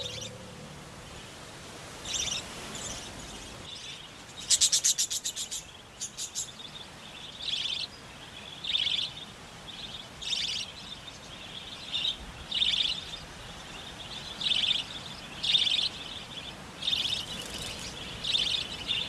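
Budgerigars chirping in short, high calls, with a rapid burst of quick clicky notes about five seconds in, then calls repeating roughly once a second.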